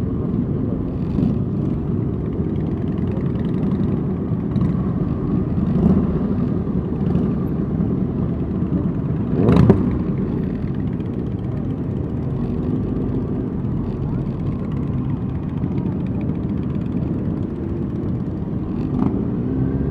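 Motorcycle engines running steadily in a slow group ride, a continuous low drone. One sharp bang cuts through about halfway in, and a faint rising-and-falling rev is heard near the end.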